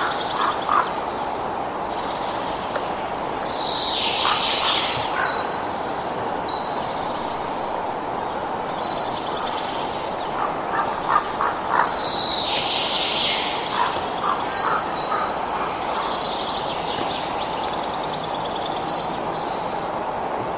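Wild birds singing: short high chirps and brief whistled notes, with a fuller burst of calls about four seconds in and again around twelve seconds, over a steady low rushing background.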